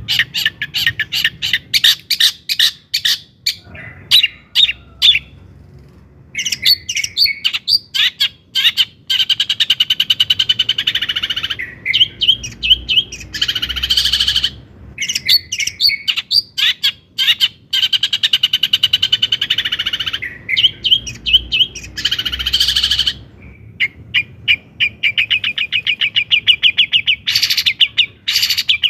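Long-tailed shrike (cendet) singing loudly: rapid runs of sharp repeated notes alternating with dense, harsh chattering phrases, broken by short pauses.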